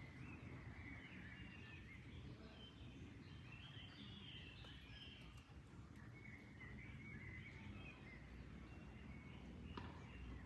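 Faint songbirds chirping in three short runs of phrases, over a low, steady rush of flowing water.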